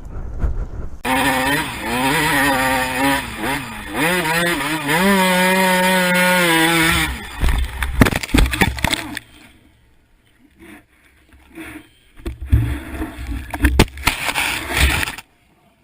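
Motorcycle engine accelerating hard, its pitch rising, dropping once as through a gear change, then climbing to a steady high note, followed by a clatter of sharp knocks and later rumbling with more knocks.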